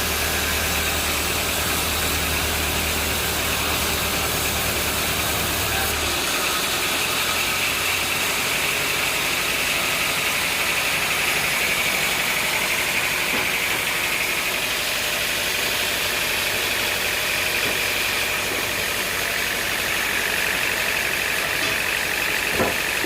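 An engine running steadily. A low hum under it stops about six seconds in, and a single small knock comes near the end.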